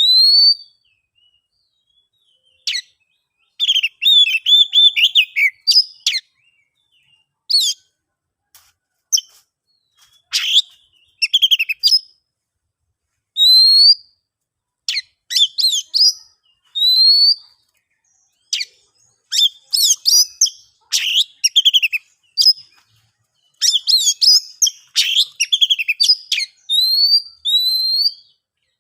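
Oriental magpie-robin (kacer) singing in separate phrases: clear, short rising whistles mixed with fast chattering runs, with short silent gaps between phrases.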